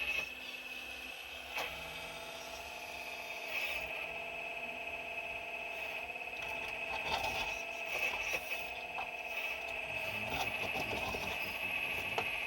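4200XL excavator's small motor whining steadily while it digs, with scattered clicks and rattles of rock and gravel.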